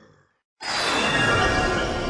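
A metallic sound effect: a sudden hit about half a second in, followed by a ringing tail that fades slowly.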